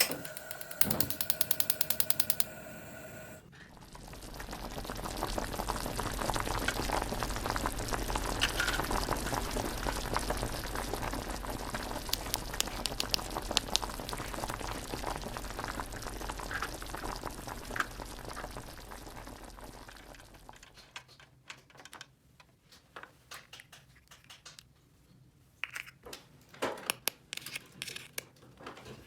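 Toy kitchen water faucet running: its small pump hums steadily while water pours for about seventeen seconds, then stops. It is preceded by a short, fast pulsing electronic tone, and a few light plastic clicks follow near the end.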